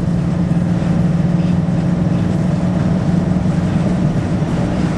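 Truck driving along a snowy road, heard from inside the cab: steady engine hum and road rumble.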